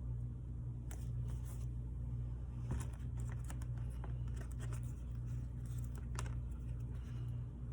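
Light clicks, taps and paper rustles from hands working on a paper planner at a desk, over a steady low hum.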